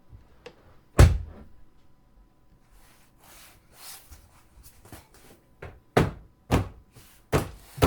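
Five sharp thuds: one about a second in, then four closer together near the end, with faint hiss between.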